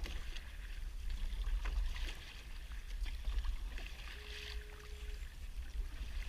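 Water splashing and lapping around a kayak in patches about every two seconds, over a steady low wind rumble on the microphone. A short steady hum sounds for about a second, starting about four seconds in.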